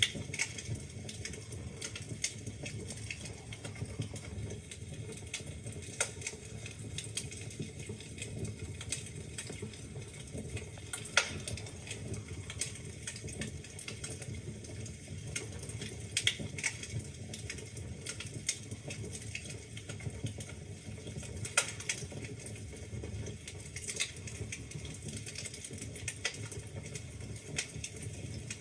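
Wood fire crackling in a fireplace: a steady low rumble of burning with frequent irregular snaps and pops, a few of them louder.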